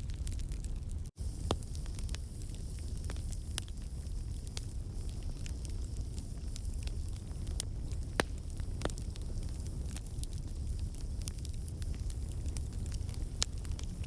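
Wood campfire burning: a steady low rush of flame with scattered sharp crackles and pops from the logs, as moisture and sap in the wood escape as steam. The sound drops out for a split second about a second in.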